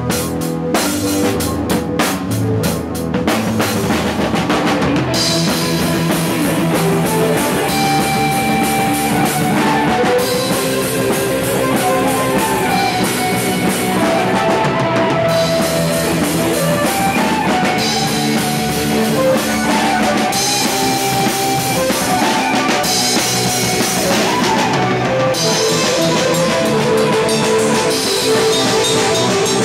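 Rock band playing an instrumental passage of a song, with drum kit, guitar and bass and no vocals; sharp drum hits near the start give way to a sustained guitar melody.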